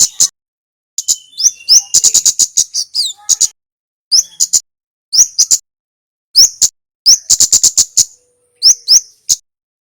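Male kemade songbird singing in short, fast bursts: rapid rattling strings of sharp, high 'cit' chips mixed with brief slurred whistle notes, in separate clusters with short pauses between them.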